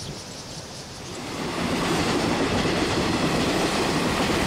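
A passenger train passing close by, its wheels rumbling and clattering on the rails. It swells in about a second in, then stays loud and steady.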